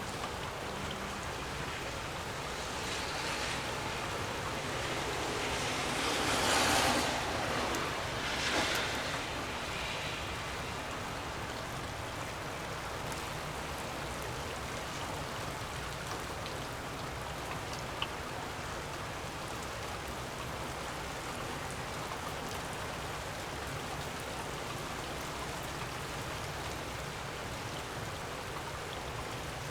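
Gusty wind blowing steadily, with a low rumble and two stronger gusts swelling about six and eight seconds in. A single short click comes near the middle.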